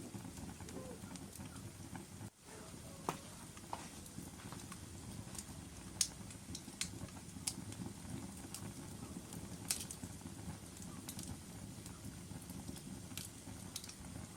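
Log fire burning in a fireplace: a steady low rumble of flames with scattered sharp crackles and pops from the burning wood, the loudest about six seconds in and just before ten seconds.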